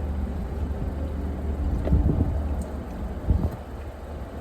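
Steady low rumble inside a car cabin, typical of a car idling, with two soft knocks about two and three seconds in.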